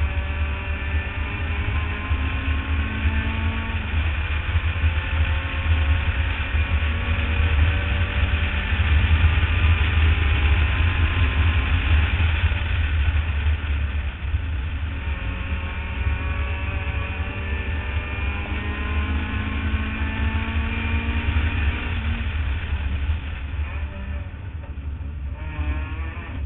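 Mazda Miata race car's four-cylinder engine at full racing pace, its note climbing slowly through long pulls and dropping back about halfway through, under a heavy steady wind rumble on the roof-mounted camera.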